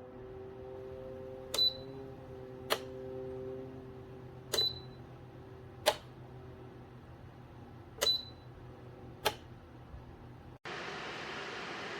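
Small ceramic space heater's fan motor humming steadily, with six sharp clicks, three of them with a short high ping, from the heater being handled. Near the end the sound cuts suddenly to a steady hiss.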